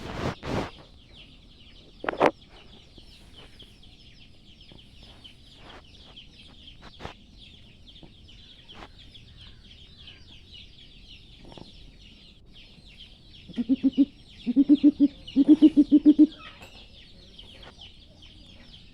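Young greater coucal giving deep, rapid pulsed calls in three quick runs about two-thirds of the way through. A steady high-pitched drone runs underneath, with a couple of sharp knocks near the start.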